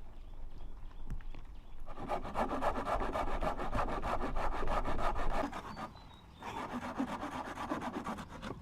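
Rapid, even scraping strokes, many a second, like something being rubbed or rasped against a hard surface. They start about two seconds in, pause briefly past the middle, then resume.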